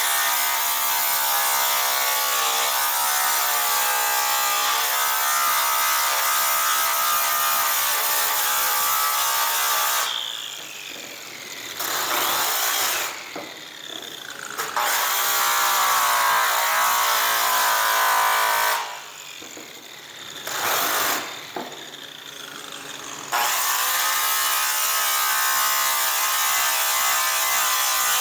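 Makita GA7021 angle grinder fitted with a buffing wheel, running at speed as it cuts an exhaust pipe with black compound. The motor eases off and winds back up several times, around ten seconds in and again around twenty.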